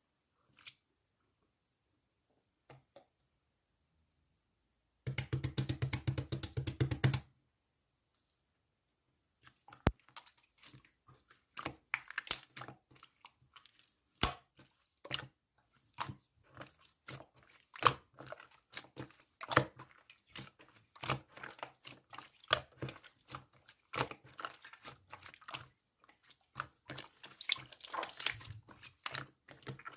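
Hand-worked slime making wet, sticky clicks and small pops in irregular runs, with a quick dense burst of clicks about five seconds in.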